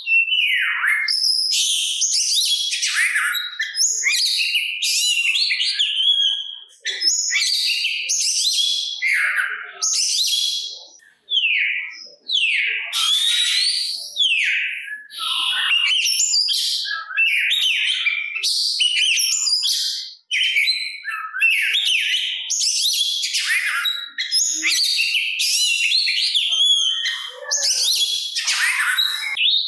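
Oriental magpie-robin singing a rapid, varied song of whistles and chirps, with a few short pauses.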